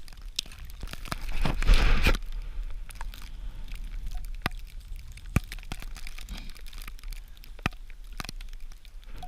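A brief burst of rustling noise a second or so in, then a few scattered sharp clicks and snaps, over a steady low rumble of wind on the microphone.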